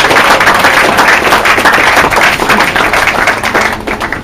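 Crowd applauding, thinning out to scattered claps near the end.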